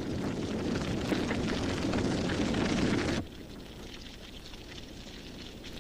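Savanna grass fire burning: a dense rush of noise full of crackles. About three seconds in it cuts off suddenly to a quieter, sparser crackle.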